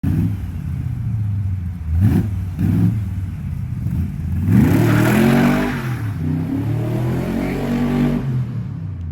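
Car engine idling and being revved: two quick blips, then a longer rev that climbs and settles back to a steady run.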